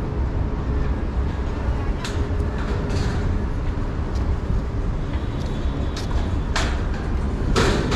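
Steady low rumble of vehicle traffic, broken by a few short bursts of higher noise near the end.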